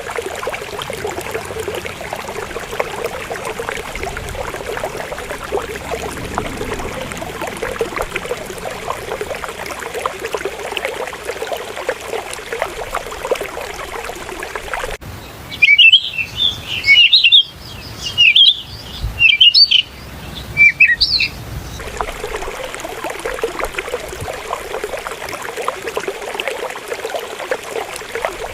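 River water running steadily. About halfway through it cuts off abruptly, and about six seconds of loud, high bird chirps and twitters take its place before the water sound returns.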